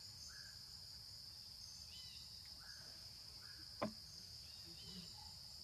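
A steady, high-pitched insect chorus, with a few faint bird chirps and one short sharp click nearly four seconds in.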